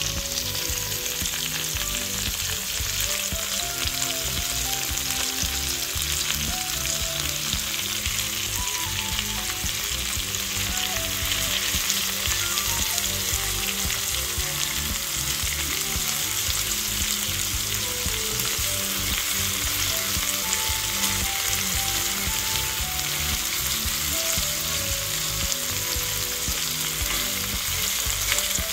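Chopped okra and onions sizzling steadily in hot oil in a cast-iron skillet, stirred now and then with a wooden spoon.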